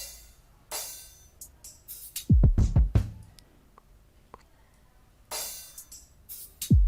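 Electronic drum-kit samples from the Heatup 2 plugin being auditioned. Scattered cymbal and hi-hat hits come first, then a quick run of deep kick drums with a falling pitch about two seconds in, and one more deep kick near the end.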